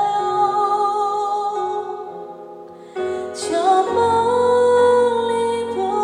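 Live pop ballad: a female singer's held note over band accompaniment fades away about two to three seconds in, then the band and voice come back in with a new phrase.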